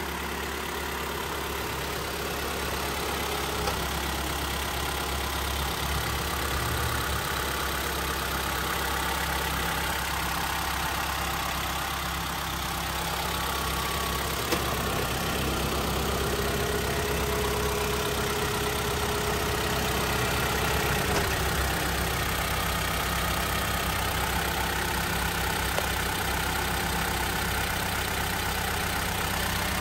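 2018 Mitsubishi Outlander's 2.4-litre MIVEC four-cylinder engine idling steadily, heard from above the open engine bay. A faint higher whine fades in and out twice.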